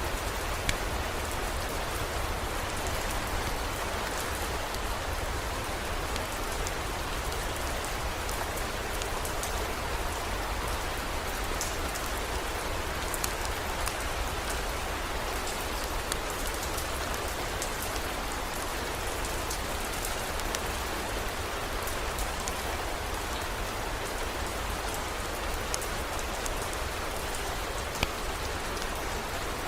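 Heavy rain falling steadily, with scattered sharp drop ticks and a low steady rumble beneath.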